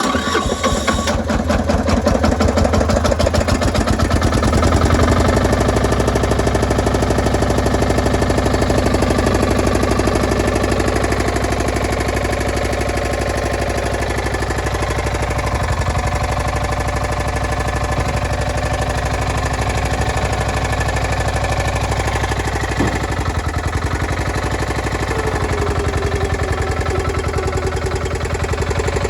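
The diesel engine of a Yanmar C10R-1 crawler dump carrier starting up, then running steadily at idle. It runs a little harder for the first several seconds before settling, with a single click a few seconds before the end.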